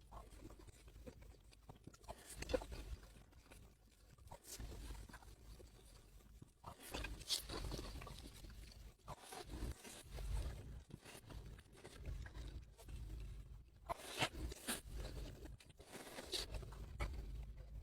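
Close-up chewing of crunchy food, with irregular crunches and crackles.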